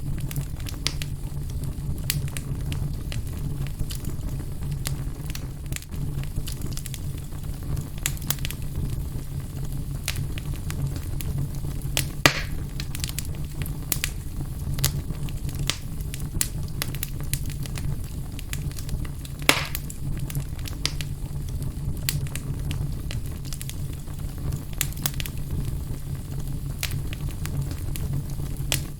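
Wood fire burning in a fireplace, crackling steadily over a low rumble of the flames, with a couple of louder pops.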